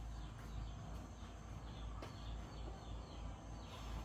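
Outdoor background with birds chirping repeatedly over a steady low rumble.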